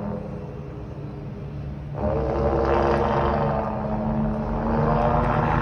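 Scania truck engine revving through an aftermarket exhaust. It sits lower for the first two seconds, then the throttle is opened again and the revs hold up and swell once more near the end.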